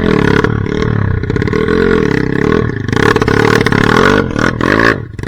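Trail motorcycle engine revving hard, its pitch rising and falling repeatedly with the throttle, then dropping away sharply near the end.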